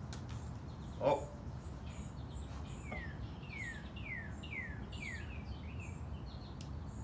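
A songbird outside singing a run of clear down-slurred notes, about two a second, over steady low background noise. A single short, louder sound comes about a second in.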